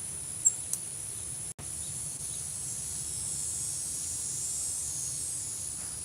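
Steady high-pitched chorus of singing insects, with a brief sharp chirp about half a second in.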